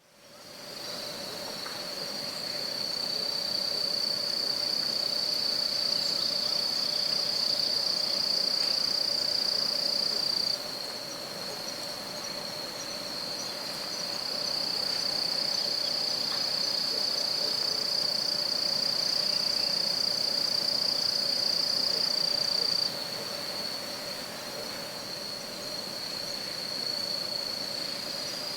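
Autumn insect ambience: crickets trilling steadily and high-pitched, over a fainter, lower steady tone. It fades in at the start, and the level drops abruptly about ten seconds in and again about twenty-three seconds in, where separately recorded ambience tracks are cut together.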